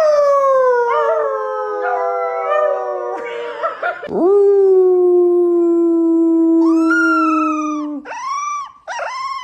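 A pet dog howling in long held notes when asked to 'say mama': a first note sliding slowly down in pitch over about three seconds, a lower steadier one lasting about four seconds, then a few short rising-and-falling yowls near the end.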